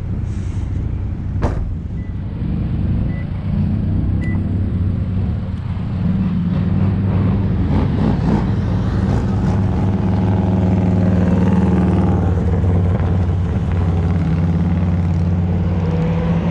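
Car engines running: a steady low engine hum, joined partway through by a second engine whose pitch rises and then holds higher near the end.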